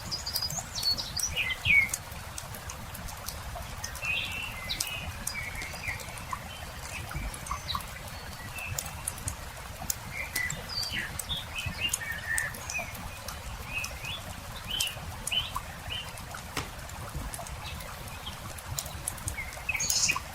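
Small birds chirping and trilling in short scattered calls over a campfire crackling with sharp, irregular pops, above a steady low rumble.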